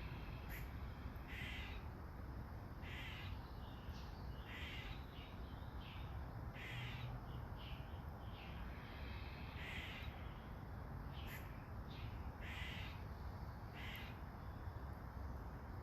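A bird calling repeatedly, short calls every one to three seconds, over a steady hiss of light rain.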